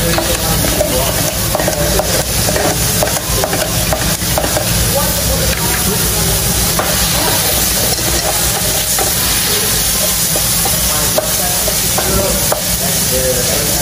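Dakgalbi (spicy marinated chicken) sizzling and frying in a large flat pan on a tabletop burner. It is stirred and turned with tongs and then a spatula, and the sizzle runs steady throughout.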